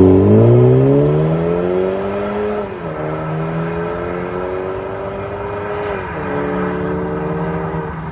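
BMW 320i's B48 turbocharged 2.0-litre four-cylinder, through an MS-R valved cat-back exhaust, accelerating. Its pitch climbs steadily and drops at two upshifts, about three and six seconds in, and it is loudest at the start.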